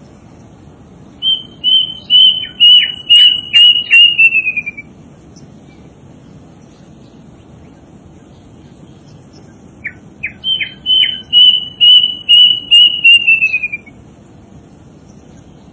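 A small songbird singing two phrases several seconds apart. Each is a quick run of clear, loud whistled notes at about one pitch, sliding slightly downward at the end, over a steady low background noise.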